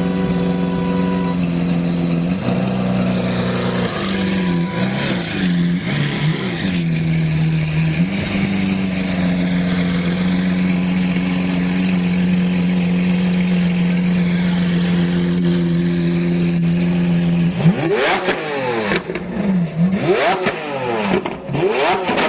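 Lamborghini engine and exhaust running steadily, its pitch wavering a little at times. Near the end it is blipped several times in quick succession, the pitch rising and falling sharply with each rev.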